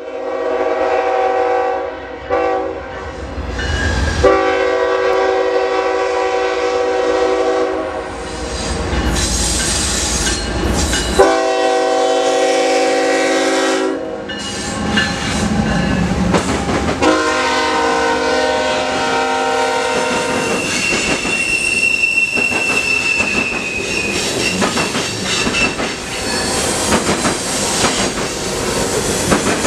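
Diesel freight locomotives sounding a multi-note air horn in several blasts, some long, with their engines rumbling as they pass. Then freight cars roll by with the clickety-clack of wheels over rail joints and a brief high wheel squeal.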